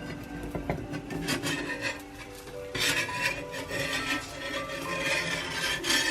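Repeated rasping, scraping strokes, louder from about three seconds in, over soft background music with held notes.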